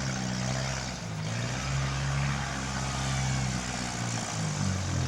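Mini demolition-derby car engines running and revving, the pitch rising and falling as the cars drive around the ring.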